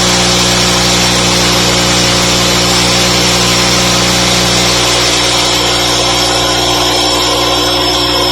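Two-stroke petrol engine running steadily on a lab test bench under load, a loud, continuous buzzing drone; its tone shifts slightly about halfway through.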